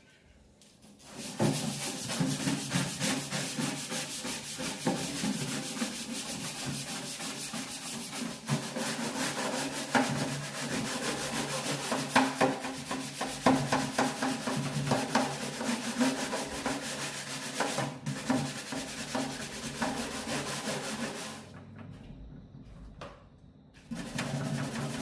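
Steady rough rubbing against a hard surface, made of many small scratchy strokes. It eases off about three seconds before the end and starts again just at the end.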